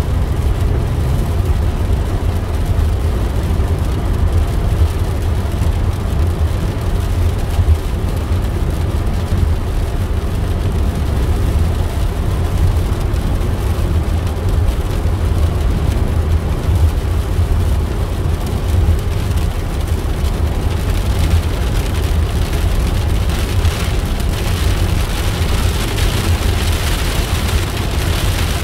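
Road and engine noise heard inside a moving car: a steady low rumble with a hiss over it. The hiss grows louder in the last third.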